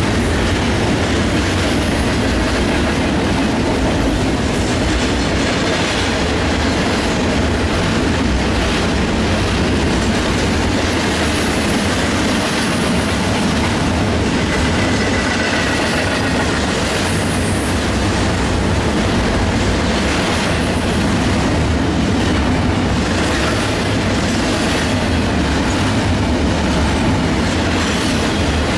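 Double-stack intermodal freight train's container well cars rolling past, with a steady rumble of steel wheels on the rails. A faint high wheel squeal comes in briefly about halfway through.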